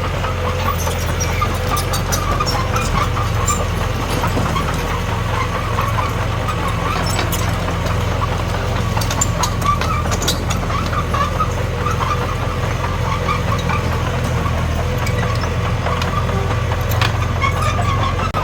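Diesel engine of a Komatsu D21P bulldozer running steadily, with scattered light clicks and knocks over the drone.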